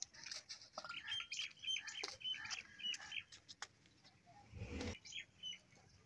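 Small birds chirping, a quick run of short repeated high notes through the first half, with a short low thump about four and a half seconds in.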